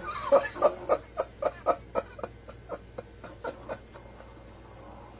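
A snake letting out a rapid, even series of about a dozen short wet popping farts, about four a second, that fade away after a few seconds.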